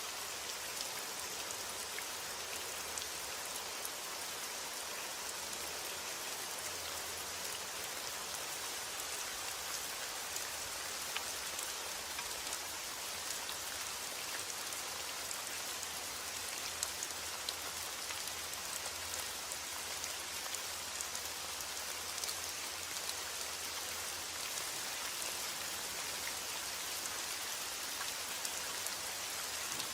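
Steady rainfall with many fine drops pattering on a surface, an even hiss with small ticks throughout.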